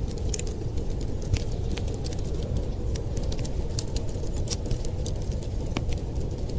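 Wood fire crackling, with frequent small sharp pops and snaps at irregular intervals over a steady low rushing rumble.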